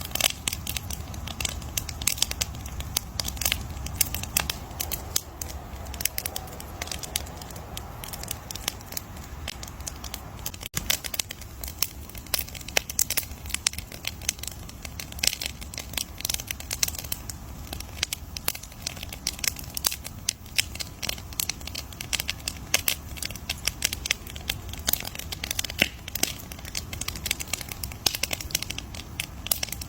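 Campfire crackling: wood snapping and popping in dense, irregular sharp cracks over a steady low rumble, with a split-second break about eleven seconds in.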